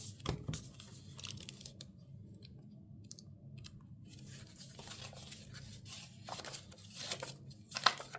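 Paper and sticker sheets rustling and crinkling as they are handled, with a short sharp crackle near the end.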